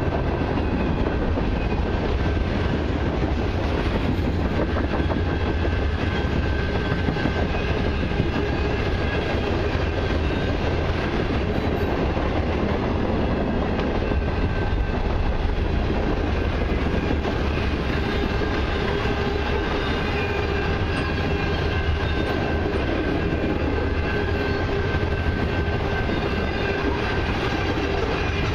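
Freight cars (covered hoppers and tank cars) of a long Canadian Pacific mixed freight train rolling past at close range: a steady rumble of steel wheels on rail with clickety-clack over the rail joints and a thin steady tone above it.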